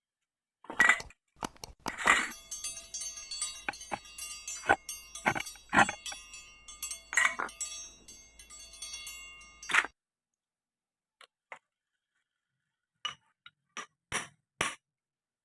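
Metal tools and engine parts clinking and knocking during motorcycle engine disassembly, with a steady ringing behind the knocks that stops suddenly about ten seconds in. A few light clicks follow near the end.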